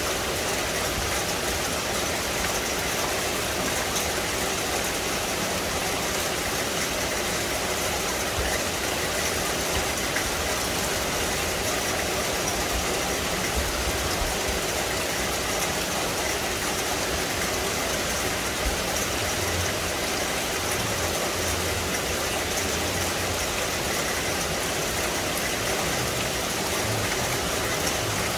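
Steady rain falling on forest foliage, an even, unbroken hiss.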